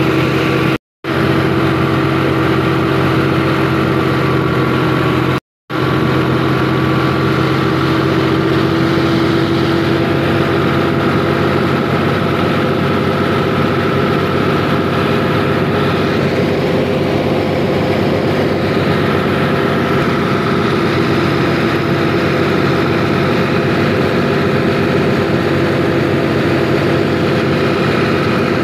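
Fiat 480 tractor's diesel engine running steadily under load, driving a paddy thresher, with the machine's drone holding an even pitch throughout. The sound cuts out completely twice for a moment, about one second and five and a half seconds in.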